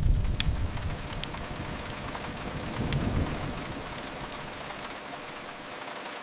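Steady rain hiss with a few sharp crackles from a wood fire, mostly in the first second or so. A heavy low rumble fades over the first second or two, swells briefly around the middle, then dies away.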